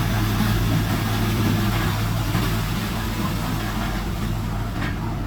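Heavy diesel earthmoving engine running steadily at low, even speed.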